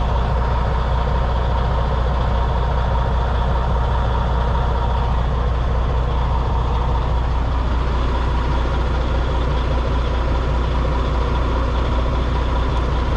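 Semi truck's diesel engine idling steadily after a fresh start, running smoothly with no audible knocks or misses.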